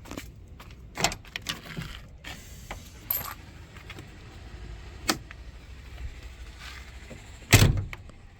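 Scattered metallic clicks and knocks of hands working the latch of a truck cab's front grille cover, with one heavy thump near the end.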